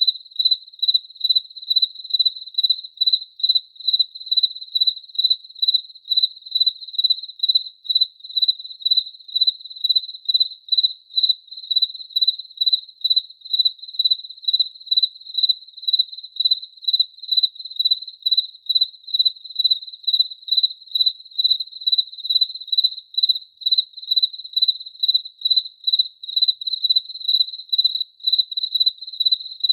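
A cricket chirping in a steady, even rhythm, about two to three short high chirps a second at one unchanging pitch.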